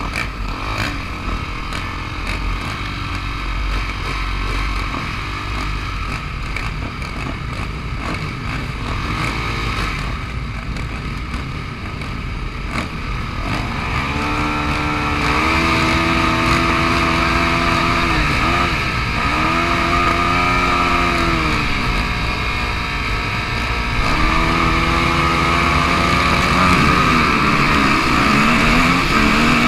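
Motocross motorcycle engine with a steady rumble and hiss, then from about halfway it revs up and down repeatedly, its pitch rising and falling, getting louder.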